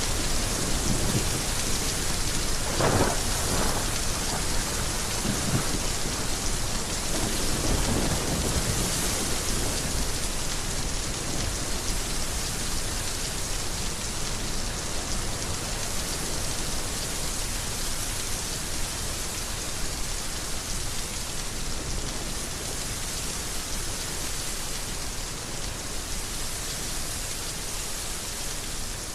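Heavy rain falling steadily, with a rumble of thunder about three seconds in and a softer one around eight seconds; the rain grows slightly softer toward the end.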